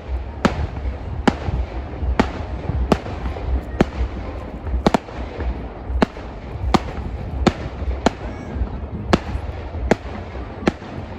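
Fireworks going off in a rapid, irregular series of sharp bangs, roughly one or two a second, over a steady low rumble.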